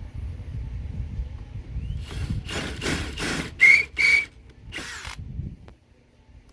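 Cordless drill, a DeWalt 12-volt brushless, run in several short bursts into wood. The two sharpest bursts, with a high whine, come just past the middle and are the loudest.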